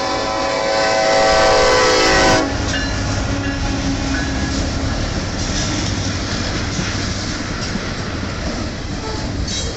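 Freight train led by an EMD SD70M-2 locomotive: the locomotive's horn sounds a loud chord that cuts off suddenly about two and a half seconds in, then the train rolls past with a steady rumble and clatter of wheels on rail.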